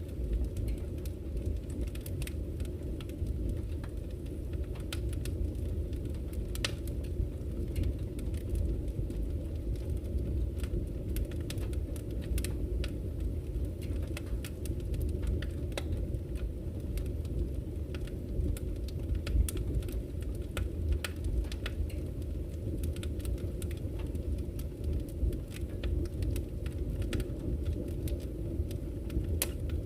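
Campfire crackling with many scattered sharp pops, over the steady low rush of a flowing river.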